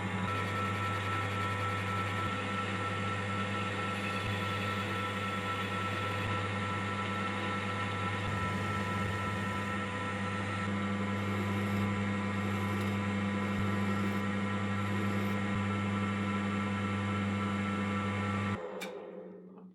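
Electric workshop machine running steadily with a strong mains hum, switched off near the end and winding down.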